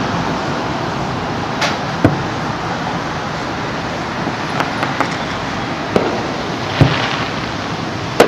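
Fireworks shells bursting in the distance, about five sharp thumps at irregular intervals with the loudest about seven seconds in. Under them runs a steady noisy background.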